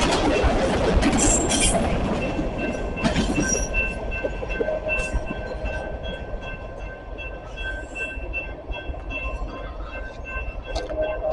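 CSX freight train rolling past, with a loud rumble and a few sharp clicks that fade after the first couple of seconds. A thin, steady high ringing tone then carries on over the quieter rolling noise as the cars go by.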